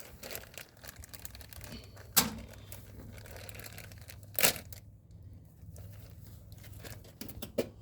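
Rustling and crinkling of hands working with fuel pump parts while the new sealing ring goes onto the tank opening, with three sharp clicks spread through it.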